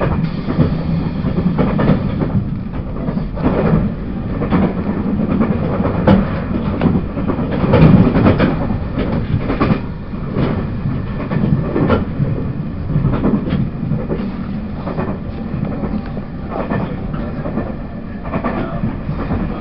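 Running sound of a Taiwan Railways E1000-series push-pull Tze-Chiang express, heard from on board: a steady low rumble of wheels on track, with irregular clicks and knocks as the wheels pass over the rails.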